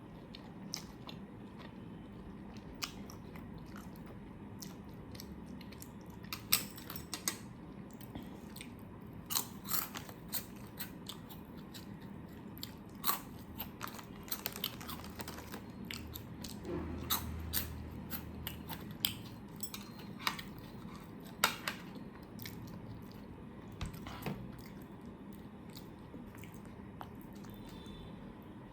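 A person chewing food close to the microphone, with irregular sharp wet mouth clicks and smacks, thickest in the middle stretch and thinning out near the end.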